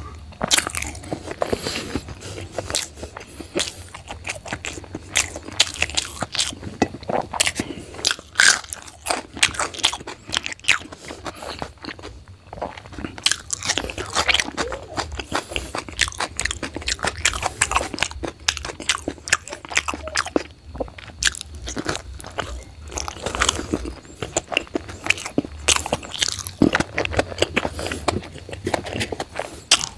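Close-up mouth sounds of a person chewing and biting into a whole fried egg and rice, with many short, irregular wet clicks and smacks.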